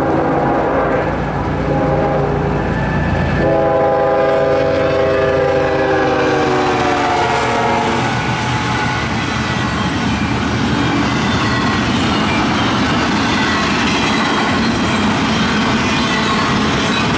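Freight locomotive's air horn sounding a chord of several tones, a second, louder blast starting about three and a half seconds in and dropping in pitch as the locomotive passes, then stopping about halfway. The steady rumble and clatter of a fast double-stack freight train's cars going by takes over.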